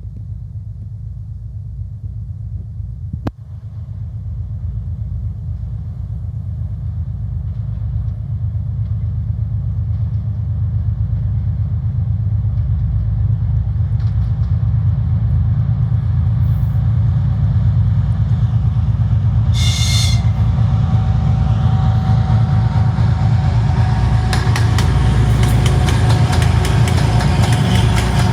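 A consist of 2TE10U and 3TE10UK diesel locomotives approaching, the low drone of their diesel engines growing steadily louder. Wheels begin clacking rapidly over the rail joints in the last few seconds as the locomotives draw level.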